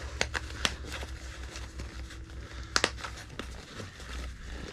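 Nylon MOLLE pouch straps being worked onto a vest and snapped shut: fabric rustling with a few sharp snap clicks, a close pair of them near the end of the third second, over a low steady hum.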